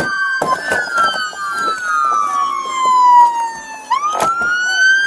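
Police car sirens wailing, at least two sounding at once: the pitch falls slowly for about three seconds, then sweeps quickly back up near the end. A few short knocks are heard over the sirens.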